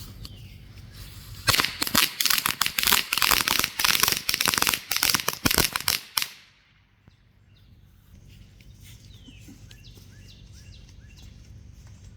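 A strip of 80 Full Blast Lady Finger firecrackers going off as a rapid, uneven string of sharp cracks for about five seconds, starting about a second and a half in and stopping abruptly.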